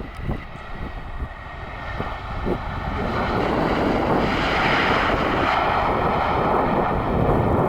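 Jet airliner's engines passing close by: a faint high whine at first, then a broad roar that builds over the first few seconds and stays loud.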